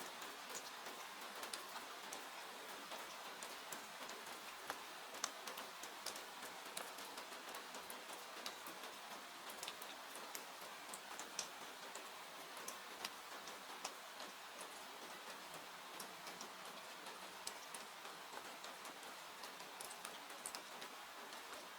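Wood fire crackling with irregular sharp pops and snaps, over a steady hiss of falling rain.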